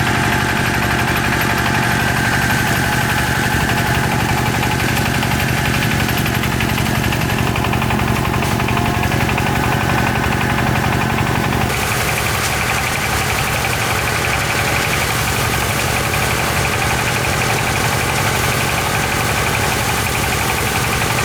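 An engine running steadily with a fast, even beat. Its sound changes abruptly about twelve seconds in and then carries on steadily.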